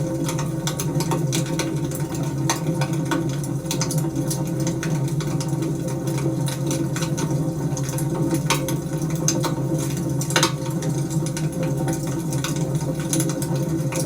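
Wood fire crackling, with scattered sharp pops over a steady low rumble; one louder pop comes about ten seconds in.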